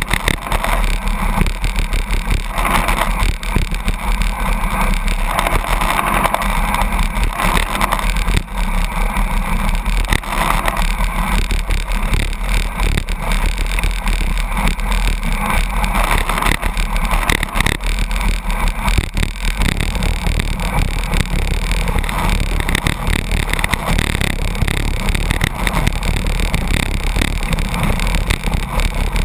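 Steady rush of wind and road noise while riding a road bicycle in a truck's slipstream at about 82 km/h, with a deep rumble underneath that holds without a break.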